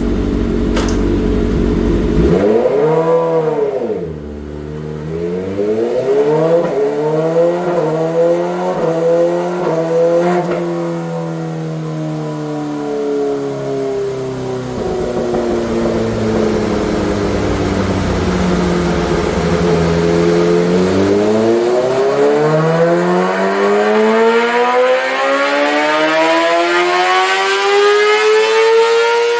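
2026 Kawasaki Ninja ZX-6R inline-four through an M4 GP full exhaust with the baffle in, on a dyno. It idles, is blipped once, rises and sags through the gears, then makes a long steady climb in revs at wide-open throttle for about eight seconds before falling off near the end. This is the baseline pull on the factory ECU.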